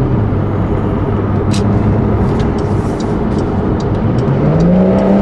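Porsche sports car's engine and tyre noise heard inside the cabin while cruising in traffic, with a steady light ticking of about two or three ticks a second from about two seconds in. Near the end the engine note rises as the car accelerates.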